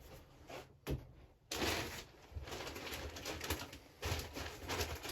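A pigeon cooing in the background over rustling and clicking as parts are handled on the bench, with one sharper click about a second in.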